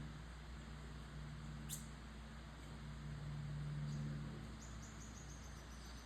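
Small birds giving high, thin chirps: one sharp downward call about two seconds in and a quick falling series of notes near the end, over a low steady hum.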